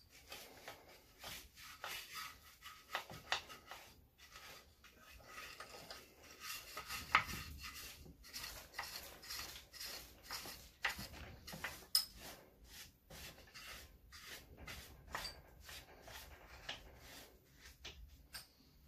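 Stiff plastic brush scrubbing caked oily grime off a degreaser-soaked small engine, in quick repeated strokes.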